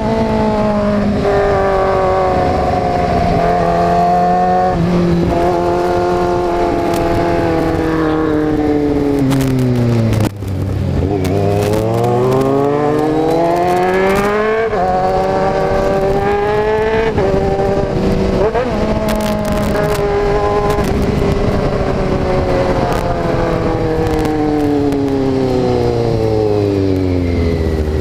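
Kawasaki Z750's inline-four engine under way, its revs rising and falling through the gears; the revs drop low about ten seconds in, with a brief dip in loudness, then climb again.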